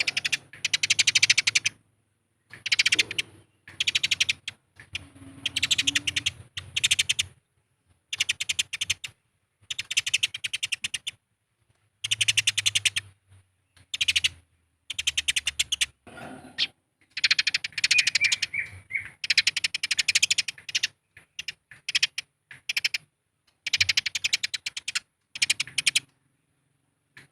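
Eurasian tree sparrows' agitated fighting chatter: rapid runs of dense, scratchy chirps, each run lasting about a second, broken by short silent gaps.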